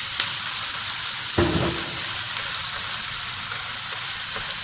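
Oil sizzling steadily in a frying pan during a stir-fry, with a sharp click just after the start and a knock about a second and a half in.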